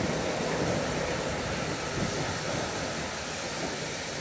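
Steam train working, a steady hiss with a low rumble underneath.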